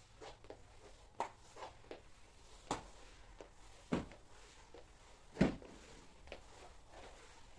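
A few light knocks and clicks of household objects being handled and set down, irregularly spaced, the loudest about five seconds in.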